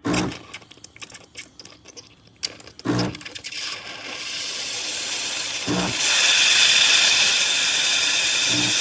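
Espresso machine steam wand hissing: the hiss builds over a couple of seconds, then holds loud and steady. Before it come clicks and a few dull knocks.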